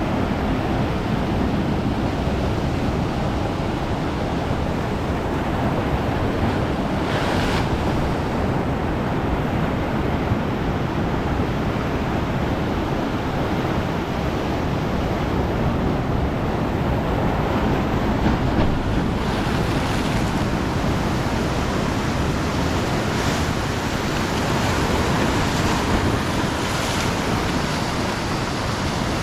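Ocean surf breaking on a beach: a steady wash of wave noise, with brief brighter hisses as waves break and spill about 7 seconds in and several more in the last third.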